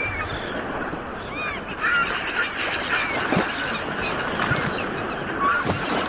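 Sea waves washing on a shore in a steady rush, with seagulls calling over it in many short, bending cries.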